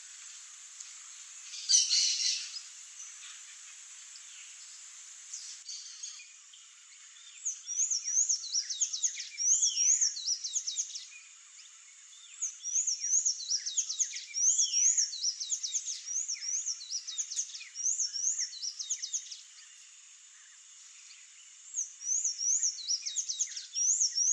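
Sayaca tanager song: three runs of rapid, squeaky high notes with short pauses between them, the first starting about a third of the way in. There is a brief noisy burst about two seconds in, and a faint steady high tone runs underneath.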